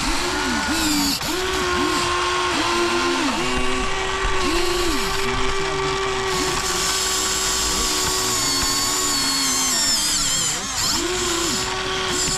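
Small electric motors and plastic gearboxes of a Huina 1593 RC excavator whining as its movements are worked, the pitch dipping and recovering again and again as motors start and stop.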